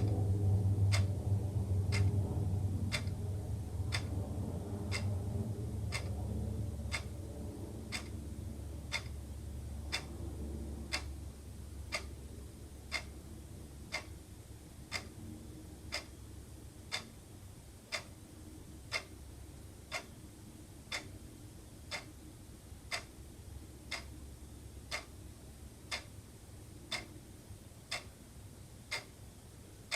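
Wall clock ticking steadily, one tick a second. A low rumble is loudest at the start and fades away over the first ten seconds or so.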